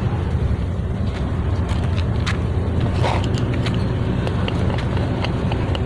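An engine running steadily with a low, even hum, with a few light clicks and knocks scattered over it.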